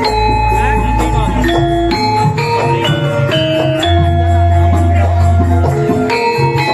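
Javanese gamelan music: struck metal keys ring out in a busy melodic pattern, and deep sustained notes enter at the start and again about four seconds in.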